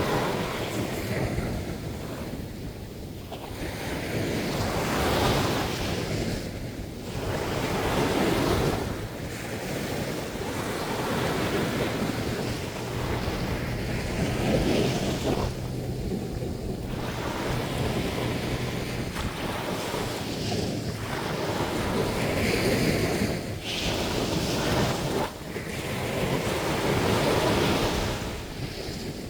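Sea surf on a sandy beach: waves break and wash up in repeated surges every few seconds, with wind buffeting the microphone.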